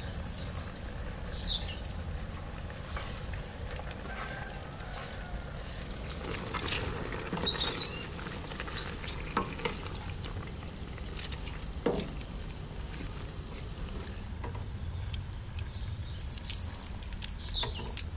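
Small birds chirping in three short bouts, near the start, around the middle and near the end, each a quick run of high, falling notes. A steady low rumble runs underneath, with an odd soft knock.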